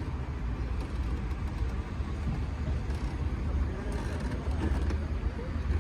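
Peugeot convertible's engine running steadily with a low rumble.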